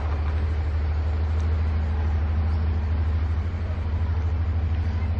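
Car engine running slowly close by, a steady low rumble.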